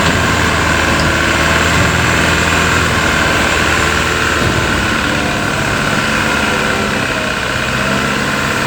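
A truck's engine running steadily at low revs; its low tone eases off about four and a half seconds in.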